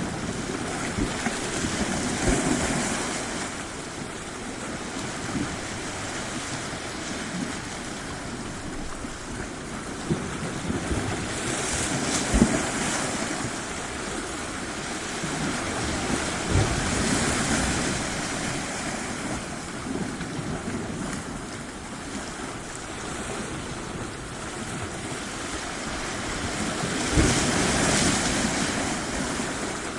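Waves washing onto a shore in a continuous hiss of surf, swelling as breakers roll in every several seconds. The strongest surges come a little after 10 s and again near the end, with brief low thuds as the waves break.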